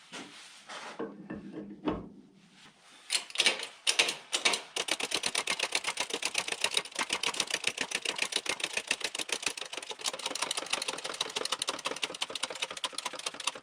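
Rapid, regular mechanical clicking, about ten clicks a second, preceded by a few scattered knocks and ending abruptly.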